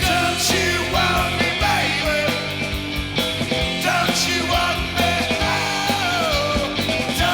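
Live rock band playing loudly, with drums, bass and a lead melody line that bends and slides in pitch.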